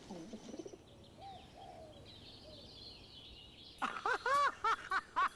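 Birds calling: faint scattered chirps at first, then, near the end, a louder quick series of short rising-and-falling calls, several a second.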